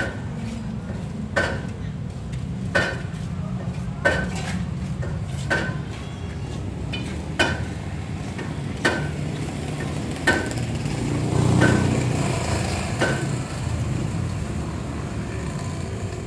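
Daihatsu Xenia 1000 cc three-cylinder engine idling steadily, with a sharp metallic click that rings briefly and repeats about every one and a half seconds. The engine note swells briefly a little past the middle.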